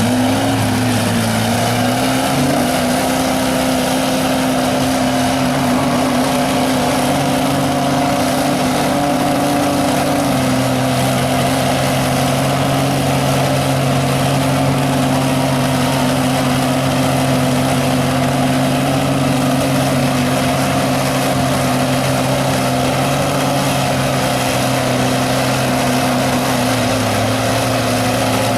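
Truck engine held at high, steady revs, its pitch climbing in the first couple of seconds, then holding with a slight drop about ten seconds in and again near the end.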